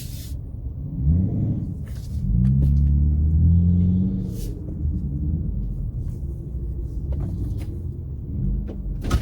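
Car engine with a low rumble. It rises in pitch about a second in, holds a strong steady drone for a second or two, then drops back to a lower, quieter rumble.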